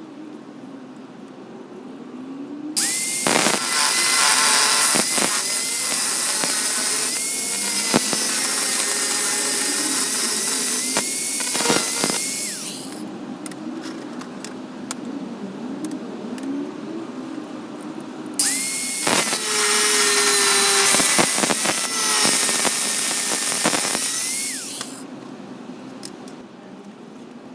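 A home-made belt grinder driven by an angle grinder runs twice, about ten seconds and then about seven seconds. Each time its motor whine rises quickly to a steady pitch over a harsh hiss and dies away when it is switched off.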